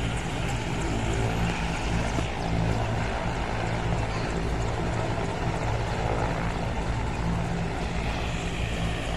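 Helicopter running: a steady rotor and engine drone, strong in the low end and unchanging throughout.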